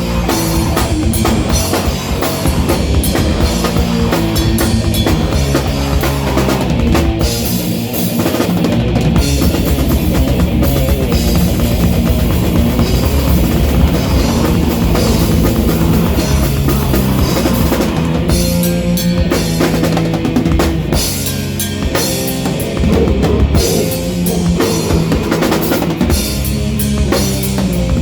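Loud live rock band: drum kit with bass drum and crashing cymbals, over held bass and guitar notes.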